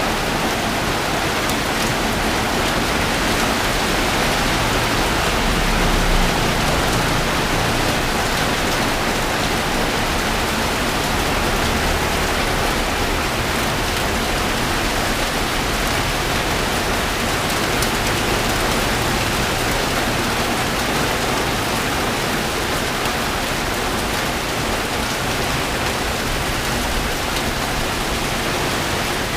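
Rain pouring down steadily from a tropical storm, a dense even hiss with no let-up.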